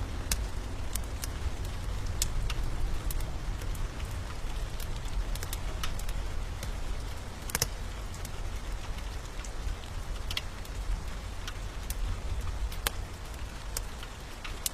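Steady rain with a low rumble of thunder dying away, and scattered sharp pops of a wood fire crackling.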